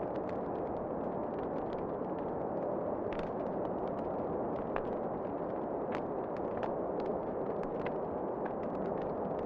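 Wood fire crackling in a fireplace, irregular sharp pops and clicks several times a second over a steady rush of wind.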